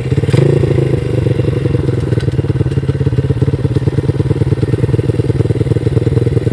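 X Pro Sail 150cc four-stroke single-cylinder pit bike engine idling steadily, with fast, even firing pulses.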